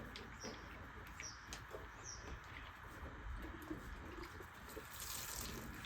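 Small birds chirping, a quick high falling chirp repeated about once a second, with a brief hiss about five seconds in.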